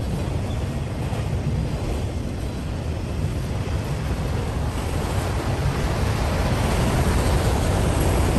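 Multilevel autorack freight cars rolling past at speed: a steady rumble and roar of steel wheels on rail, growing a little louder and brighter near the end.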